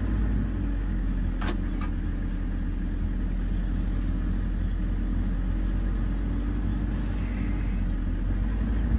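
Safari jeep's engine idling with a steady low rumble, and a single sharp click about one and a half seconds in.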